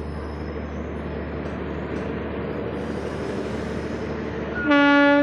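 Express passenger train running with a steady rumble of coach and wheels on the rails. Near the end comes one short, loud train horn blast, under a second long.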